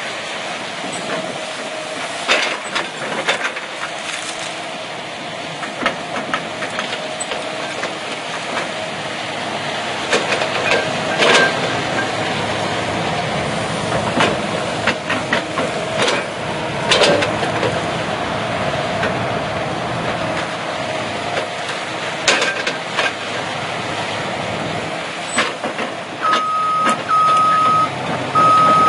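Heavy machinery running steadily with a low hum, with scattered sharp cracks and knocks of wood and metal. Near the end, a reversing alarm beeps about once a second.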